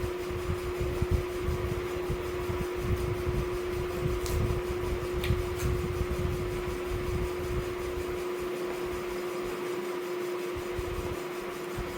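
Steady whirring of an electric fan with a constant hum, and a couple of faint ticks about four and five seconds in.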